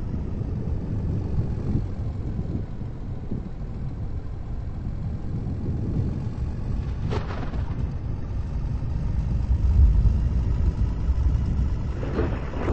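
Steady low rumble of a car driving, louder for a moment around ten seconds in, with a brief rushing sound about seven seconds in and another near the end.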